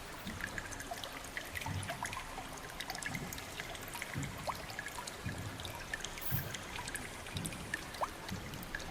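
Water trickling and dripping, with scattered small drips and plinks.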